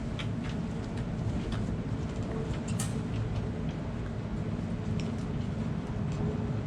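Steady low outdoor rumble, like wind on the microphone or distant traffic, with scattered faint clicks and one brief high chirp about three seconds in.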